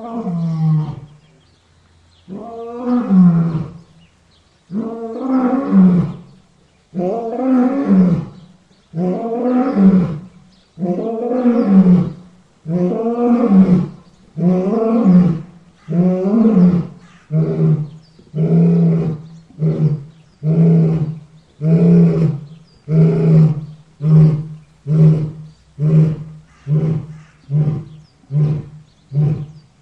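A lion roaring in a series: long, deep roars about every two seconds, then shorter grunting roars coming about once a second from the middle onward.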